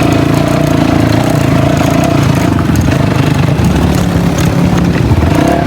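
Dirt bike engine running steadily while riding, with a slight shift in engine pitch about four seconds in.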